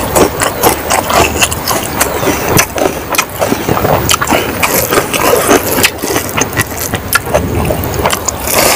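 Close-miked eating by hand: wet chewing and lip smacks as mouthfuls of rice and egg curry are eaten, with many short sharp clicks and smacks throughout.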